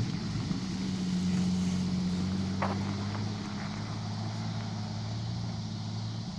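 Off-road vehicle engine running steadily at low revs, a low even hum with no revving, and one short high chirp about two and a half seconds in.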